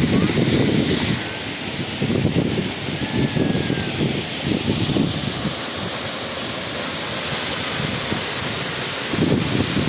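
Gega waterfall's falling water making a steady, thick rushing noise, with uneven low rumbling that comes and goes through it.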